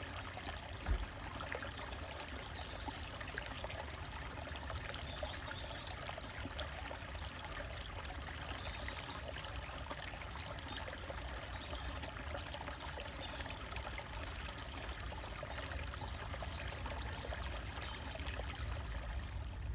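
Small stream trickling and splashing over rocks, a steady flow, with faint bird chirps now and then and a brief low thump about a second in.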